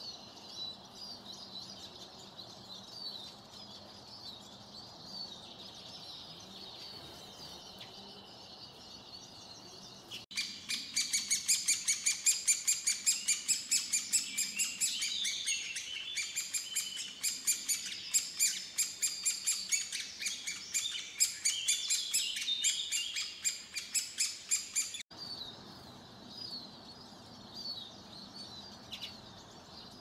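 Small birds chirping in three edited stretches. Faint high twittering comes first. About ten seconds in it cuts to a loud, rapid run of high-pitched chirps, several a second. That run stops abruptly about 25 seconds in, back to faint chirping.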